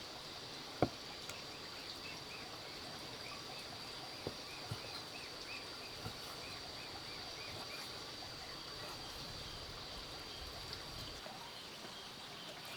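Outdoor insect drone, a steady high-pitched buzz, with a run of short repeated chirps for a few seconds in the middle and a few light knocks, the sharpest about a second in.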